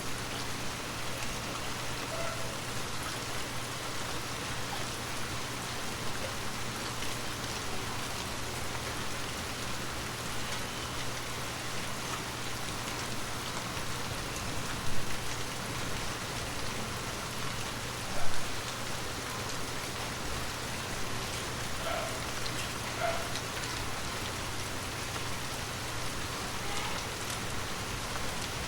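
Heavy rain falling steadily, a dense even hiss of drops. A few single drops hit louder about halfway through.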